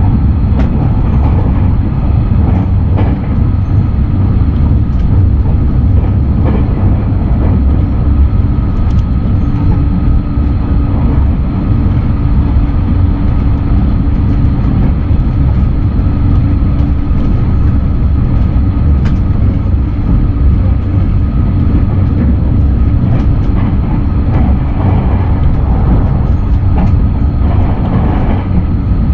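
A JR West 683-series limited express electric train running steadily, heard from inside the carriage. There is a constant low rumble of wheels on rail with a few steady tones above it, and scattered faint clicks.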